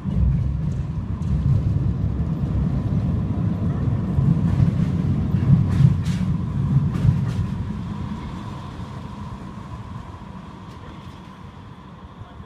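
A vehicle's low rumble that starts abruptly, carries a few sharp clicks in the middle and fades away over the last few seconds.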